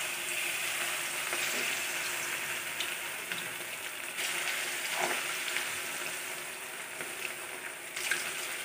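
Marinated chicken pieces deep-frying in hot oil in a wok-style pan: a steady sizzling hiss with a few small crackles.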